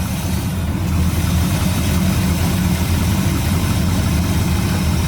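Chevy 350 small-block V8 in a 1973 Camaro idling steadily with a deep, even rumble, freshly restarted after years of sitting.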